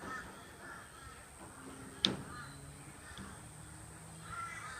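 Repeated short, harsh bird calls like crows cawing, with a single sharp click about two seconds in.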